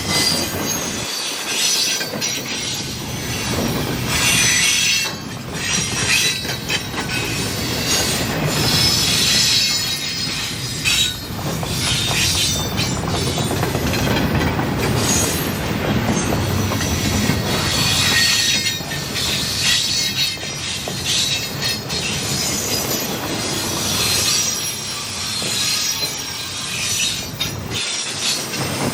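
A train rolling past with its wheels squealing on the rails: high, wavering squeal tones that come and go over steady rumbling rail noise.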